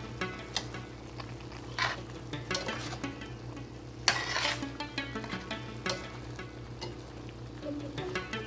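Cubed chicken breast sizzling in a frying pan while it is stirred and turned with a utensil. The utensil scrapes against the pan several times, the longest scrape about four seconds in.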